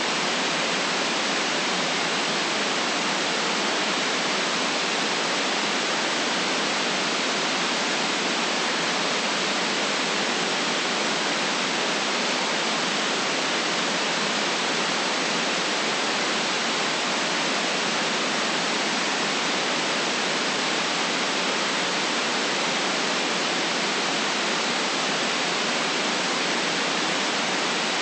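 Steady synthetic white noise: an even, unchanging hiss with most of its energy in the middle and upper range and little bass.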